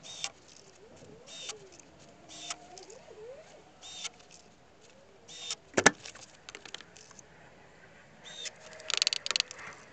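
Short high chirps repeating about every second and a half, typical of a small bird calling. About halfway through comes one sharp knock, the loudest sound, and near the end a quick run of clicks and knocks.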